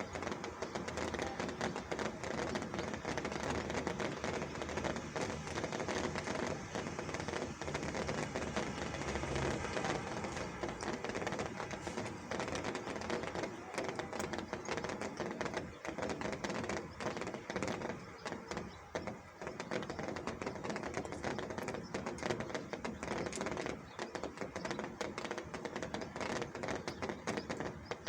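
Steady rain falling, a dense patter of drops with many sharp ticks of individual drops striking.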